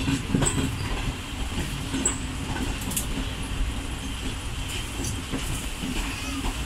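The Karachi Express passenger train running as it departs, heard from on board: a steady rumble of the carriage with scattered clicks and knocks of the wheels over rail joints and points.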